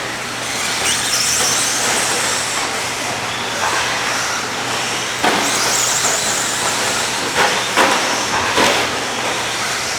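Radio-controlled 2WD racing trucks running on the track. Their motors whine high and rise and fall in pitch as the trucks speed up and slow down, with several sharp knocks in the second half.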